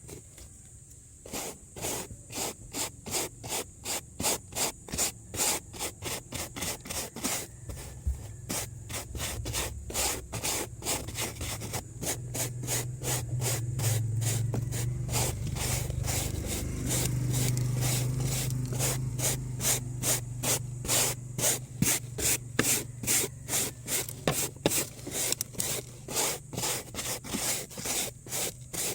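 Hand scrubbing with a brush or cloth in quick back-and-forth strokes, about two a second, as a car is cleaned by hand. A low steady hum sits under the strokes through the middle stretch.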